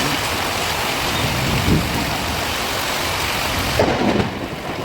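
Heavy rain falling steadily in an even hiss. Near the end it gives way to a lower, gusting rumble like wind on the microphone.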